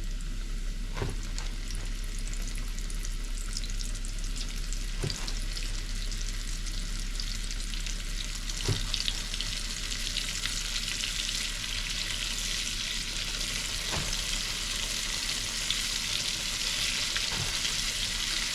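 Battered fish frying in hot oil: a steady crackling sizzle that grows denser in the second half, with a few faint knocks.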